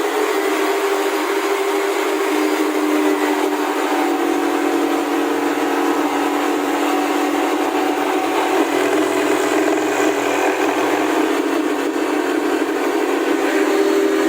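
A power tool's motor running steadily at full speed, a constant whine with a dense hiss over it.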